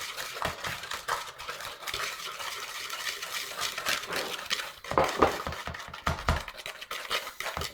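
A whisk beating dry flour, sugar and cocoa powder in a bowl: a quick, continuous run of scraping and tapping strokes against the bowl, with a few louder knocks about five to six and a half seconds in.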